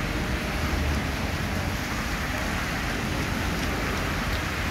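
Heavy rain falling on a wet city street, a steady hiss, with cars driving through the wet road and a low rumble underneath.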